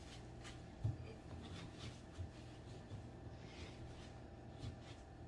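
Faint scraping and rubbing of gloved hands working the hardware of a flat-pack coffee table, with a few soft knocks, the sharpest about a second in.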